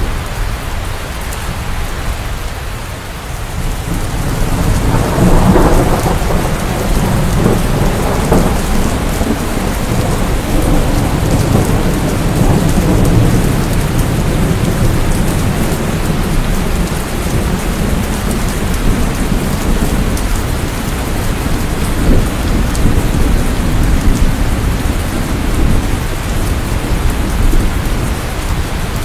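Steady rain with thunder: a low roll builds about four seconds in, peaks around five to six seconds, and rumbles on under the rain.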